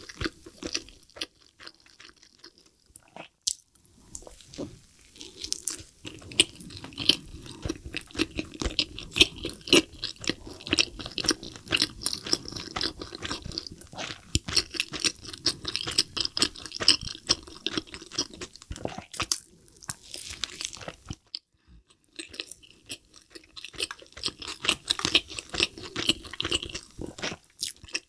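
Close-miked chewing of a mouthful of double cheeseburger dipped in cheese sauce: a dense run of quick smacks and clicks from the mouth, with brief pauses in the chewing.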